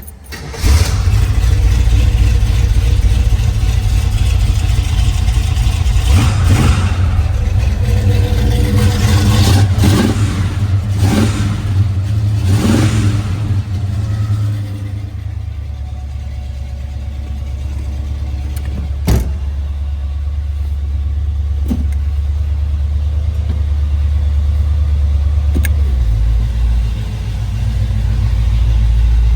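A 1967 Camaro engine cold-starting through its dual exhaust: it catches about a second in, is revved several times in quick rising blips, then settles to a steady idle. There is a single short click partway through the idle.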